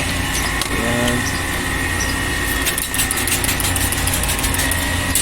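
A motor running steadily, with a low hum, a steady high whine and a hiss.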